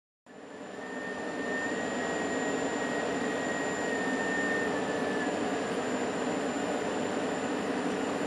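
VR Sr1 electric locomotive running steadily, a fan-like rush with a thin high whine that fades out about five seconds in.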